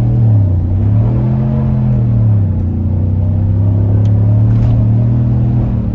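Muffler-deleted 6.2-litre V8 of a 2021 Chevy Silverado pulling hard from a stop through the gears. The exhaust note dips at a shift just after the start, climbs and dips again at a second shift about two seconds in, then holds steady.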